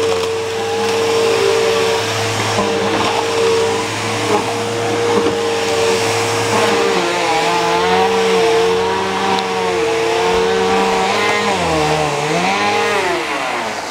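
Bissell upright vacuum cleaner, with a quarter-horsepower motor and direct-drive brushes, running with a steady whine as it picks up debris from the floor. Its pitch wavers in the second half and dips and falls near the end.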